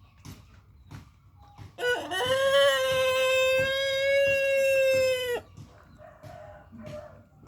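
A rooster crowing once: a short rising start, then one long call of about three and a half seconds held at a steady pitch, ending abruptly.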